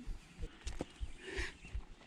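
Footsteps of a walker on a hiking trail, picked up by a chest-mounted GoPro Hero 7: a steady run of dull thuds, about three a second.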